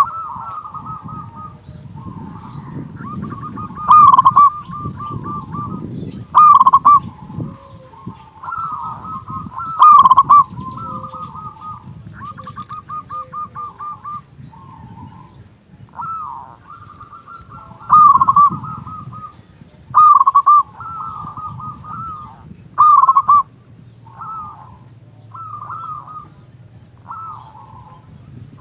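Zebra dove (perkutut) cooing over and over: loud, full-voiced coo phrases every two to three seconds, with softer, rapid rolling coos in between.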